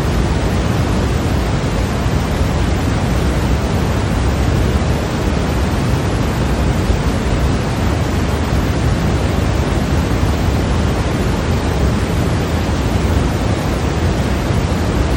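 Steady electronically generated white noise: an even, unbroken hiss weighted toward the low end, with no change in level or pitch.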